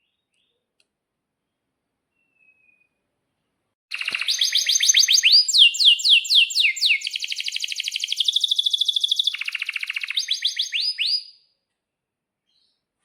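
Domestic canary singing one long song, starting about four seconds in: fast repeated downward-sweeping whistled notes, a rapid trill held on one pitch, then more sweeping notes before it stops suddenly.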